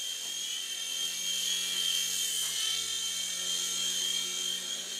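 Small electric motor and propeller of a toy flying aircraft running in a steady high whine.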